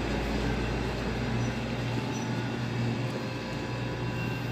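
Display refrigerator running: the compressor and the newly fitted condenser fan motor give a steady low hum with an even whirring noise over it.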